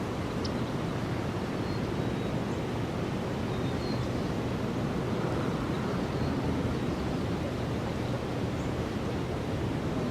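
Steady outdoor rushing noise, even and unbroken, with a few faint high chirps.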